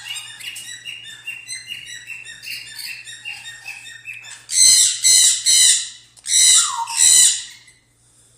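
Parrots chirping in a quick, repeated pattern, then about four and a half seconds in, five loud, harsh screeches in quick succession.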